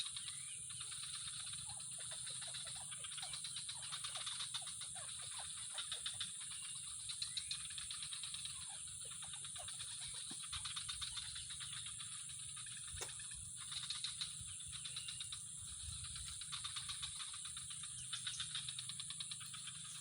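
Animal chorus, likely frogs and insects calling: bouts of rapid rattling pulses that come and go, with short chirps, over a steady high-pitched buzz.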